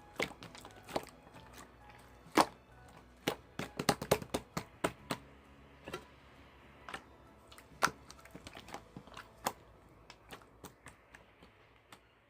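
Irregular sharp clicks and taps, several close together in places, over faint background music.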